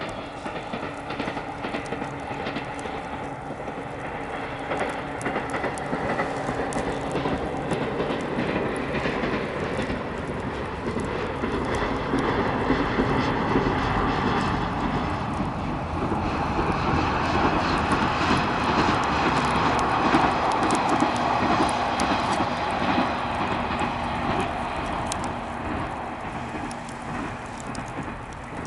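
An electric train passing: its rumble swells gradually, is loudest about two-thirds of the way through, then fades near the end. Crackles of the bonfire are heard throughout.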